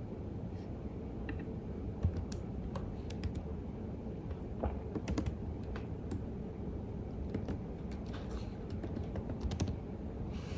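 Computer keyboard being typed on at a calm, irregular pace, key clicks in small clusters over a steady low background hum.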